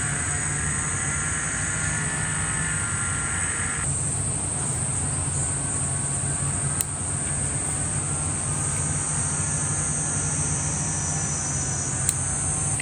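Steady high-pitched insect drone over a low steady rumble, with a second, lower insect layer that stops about four seconds in and two faint clicks later on.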